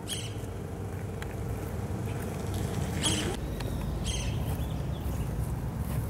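A few short bird calls, about a second in and again at about three and four seconds, over a low steady rumble with a faint hum.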